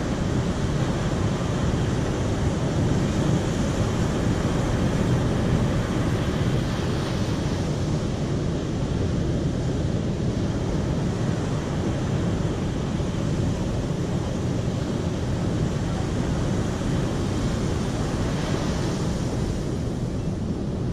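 Mountain river water rushing steadily, a continuous even roar of flowing water.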